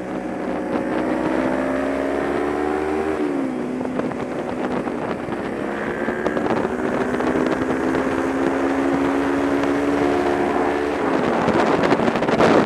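Kawasaki Ninja 250's parallel-twin engine running under throttle. Its pitch climbs slowly, drops sharply about three seconds in, climbs again and drops once more near the end, with wind noise on the microphone.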